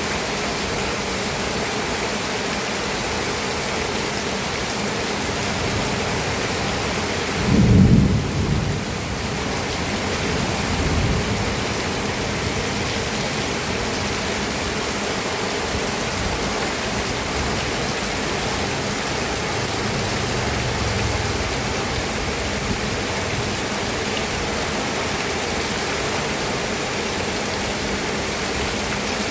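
Steady rain falling, with thunder: a loud low clap about a quarter of the way in, then a weaker rumble soon after and another faint rumble past the middle.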